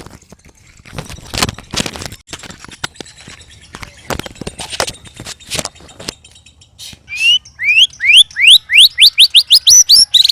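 White-rumped shama singing: a stretch of harsh clicking and rasping notes, then about three seconds before the end a fast run of loud rising whistles, about four or five a second.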